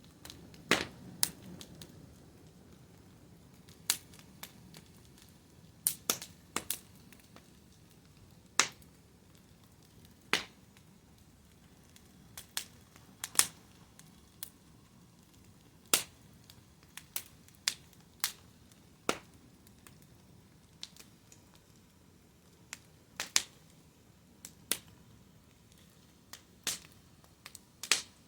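Wood fire crackling: sharp pops and snaps at irregular intervals, often a second or more apart, over a faint low hiss of burning.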